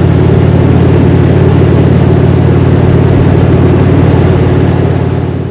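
Indian Springfield's 111 Thunder Stroke V-twin engine and exhaust running steadily while the bike is ridden; it fades out near the end.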